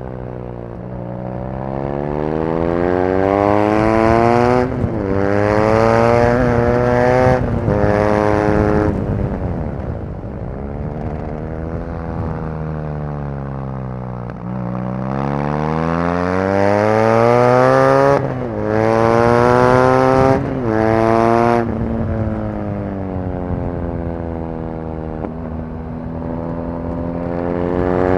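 BMW R nineT Racer's 1170 cc air/oil-cooled boxer twin, heard from on the bike, accelerating hard: revs climb with two quick upshifts, then fall away for several seconds as the throttle closes. The engine pulls hard again through three quick shifts, falls away once more, and starts climbing again near the end.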